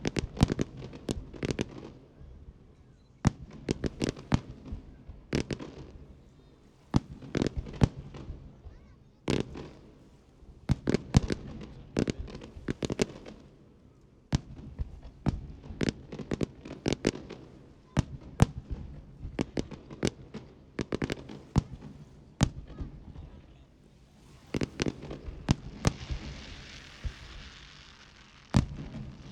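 Aerial firework shells bursting in quick, irregular volleys of sharp bangs, several a second, with short lulls between clusters. Near the end a steady hiss rises under the bangs.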